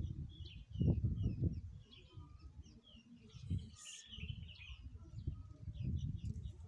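Small birds chirping repeatedly, short high calls one after another, over uneven low rumbling bursts that are loudest in the first second or two.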